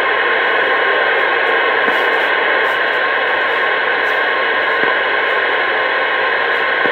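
Steady, loud CB radio static hiss from the set's speaker, with faint steady tones running through it and no voice on the channel.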